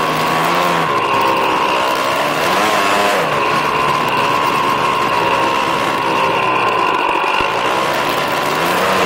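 Snow bike's engine running under load, its pitch rising and falling several times as the throttle opens and eases off, with a steady high-pitched whine throughout.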